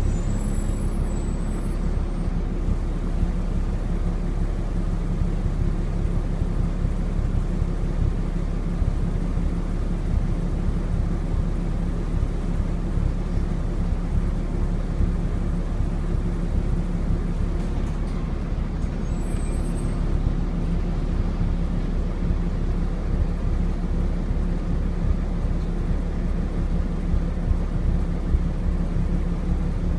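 Volvo B7TL double-decker bus's turbocharged diesel engine running steadily, with a brief high turbo whistle in the first couple of seconds and again about two-thirds of the way through.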